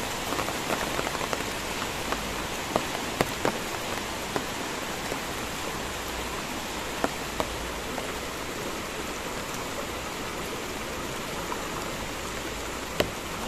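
Steady rain, with scattered sharp ticks of single drops landing close by.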